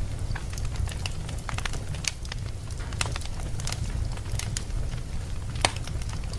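Wood fire burning in a fireplace: a steady low rumble under irregular sharp crackles and pops, with one louder pop near the end.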